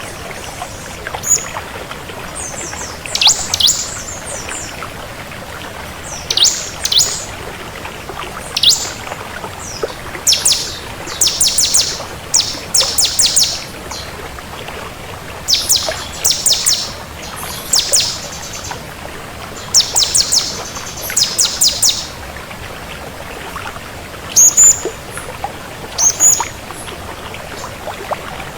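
Bar-winged prinia (ciblek) singing: repeated bursts of fast, high, sharp down-slurred notes, each burst under a second, with short pauses between, over a steady background hiss.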